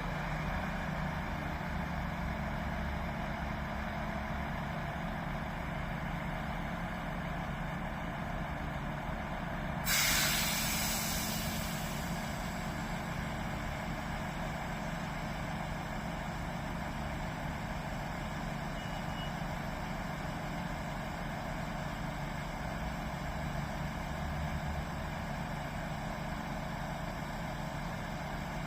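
A heavy diesel engine running steadily, with a sudden sharp hiss of released air, about two seconds long, roughly ten seconds in: an air-brake release.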